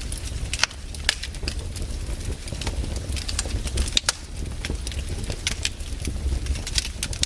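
Campfire burning: wood crackling and popping in irregular sharp snaps over a steady low rumble.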